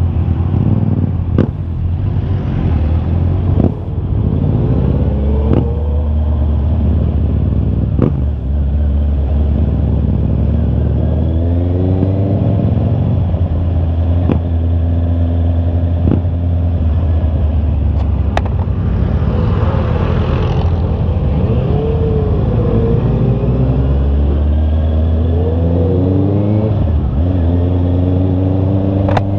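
Honda CB650R's inline-four engine under way, its pitch rising and dropping back again and again as it pulls through the gears. A few short sharp clicks are heard along the way.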